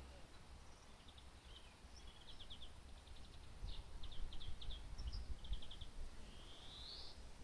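Small birds chirping in groups of short, quick high notes, with a rising call near the end, over a faint low rumble.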